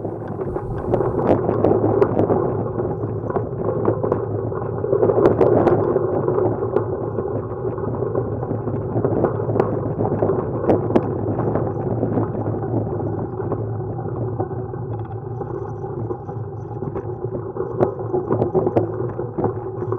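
Steady wind rush and road rumble on the camera's microphone while riding a road bike.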